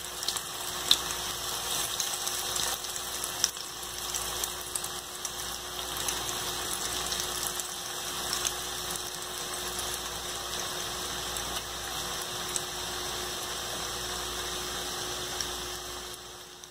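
Breaded chicken cutlets shallow-frying in a little oil over low heat: a steady sizzle with occasional sharp pops of spattering oil.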